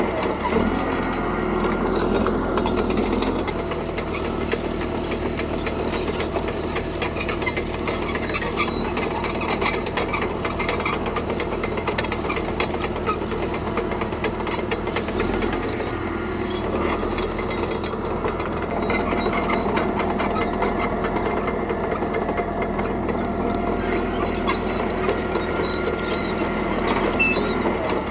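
CAT D3K crawler bulldozer working gravel: its diesel engine runs steadily under load while the steel tracks keep up a dense clicking and clanking.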